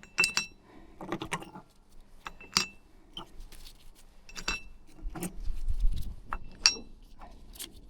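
Small metal CVT clutch weights clinking against each other and against the clutch housing as they are handled and fitted, in a scattered series of sharp clicks, several of them ringing briefly.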